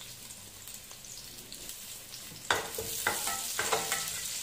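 Sliced onions and whole spices sizzling gently in hot oil in a metal pot. A little over halfway through, a spatula starts stirring them, scraping against the pot about twice a second.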